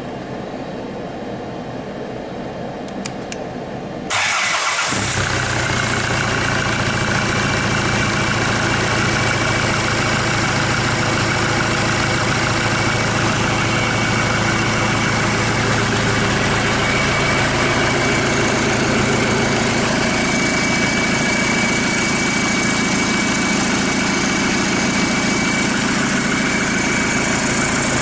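A Hyundai/Kia D4CB 2.5-litre four-cylinder common-rail diesel, run out of the car on a test stand, starts about four seconds in and settles straight into a steady idle. A thin, steady high whine runs above the engine. Before it starts there is only a steady low hum.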